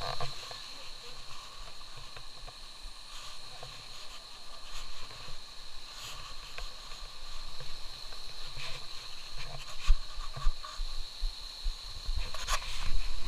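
Outdoor ambience by a waterfall: a steady faint wash of sound with a steady high-pitched drone over it. A few small knocks are scattered through it, and low wind rumble and knocks on the microphone build near the end.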